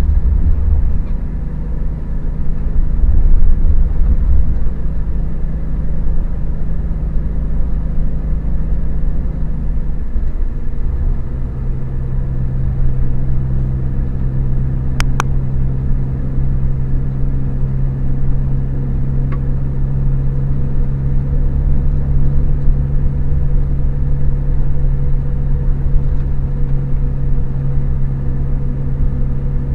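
Scania K400IB coach's rear-mounted diesel engine running steadily with a deep hum. Its pitch drops about ten seconds in and then holds steady, and two short clicks sound about halfway through.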